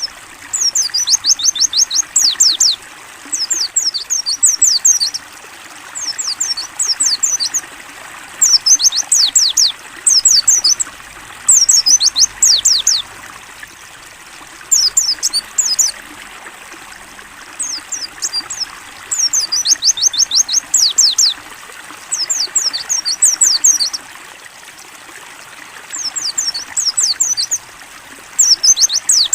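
White-eye (pleci) singing a clear song in repeated phrases of a second or two, each a fast run of high, downward-sweeping chirps, with short pauses between. A steady trickle of running water goes on underneath.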